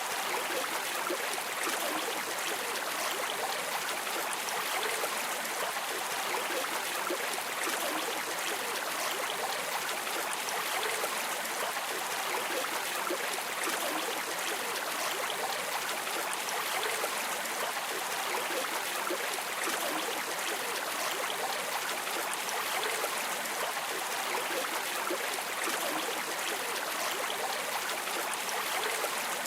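River water flowing steadily over rocks, an even rushing with small gurgles throughout.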